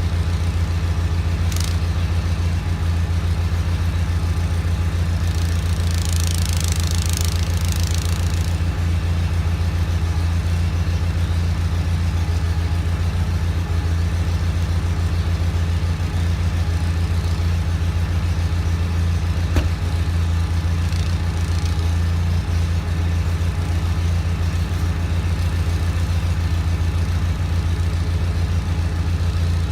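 John Deere 318 garden tractor's twin-cylinder Onan engine running steadily with its Model 49 snowblower. A brief hissing rush comes about six seconds in, and a single click about two-thirds of the way through.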